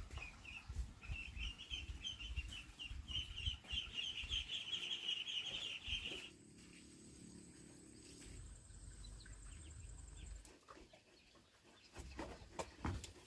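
A bird chirping in a fast run of short, high notes that grows louder, then cuts off abruptly about six seconds in. A quieter background with a faint steady high whine and a low hum follows, with a few clicks near the end.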